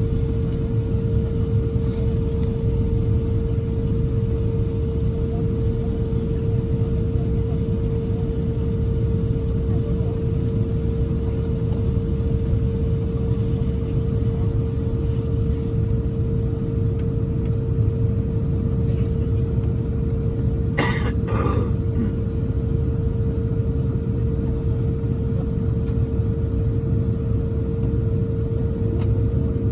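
Cabin noise of an Airbus A350-1000 under way: a steady, loud rumble of its Rolls-Royce Trent XWB engines and airflow, with a constant hum that holds one pitch. About two-thirds of the way through comes a brief, short sound over the rumble.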